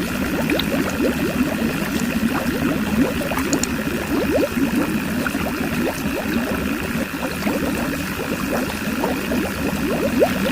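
Small DIY electric water pump running, with water gurgling and splashing in dense, irregular spurts over a steady thin whine.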